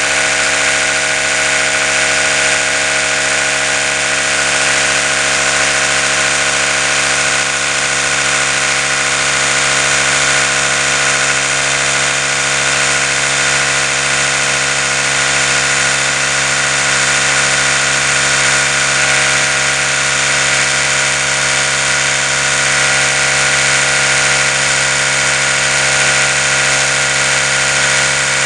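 Oral-B electric toothbrush running continuously with its brush head spinning. It makes a steady buzzing hum with a hiss above it, unchanging in pitch and level.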